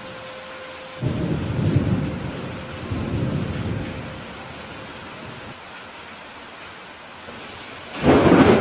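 Steady rain with thunder. A low rumble of thunder swells about a second in and fades over a couple of seconds, with a smaller swell around three seconds. A louder, sharper thunderclap comes near the end.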